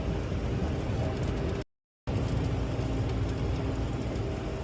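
Semi-truck's diesel engine and road noise heard from inside the cab while driving, a steady low drone with faint steady tones. The sound cuts out completely for a moment a little under two seconds in.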